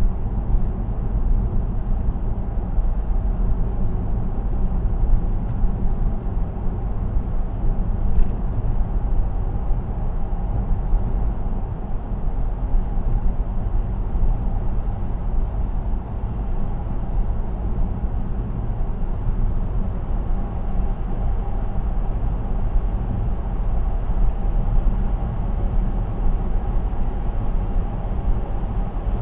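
Steady road noise of a car cruising on an expressway, picked up by a dashcam: a constant low rumble of tyres and drivetrain that holds an even level throughout.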